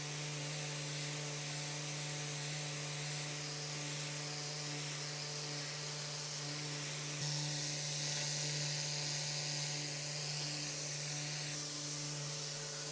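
An electric motor running at a steady speed, with a strong hiss of rushing air over its hum, winding down near the end.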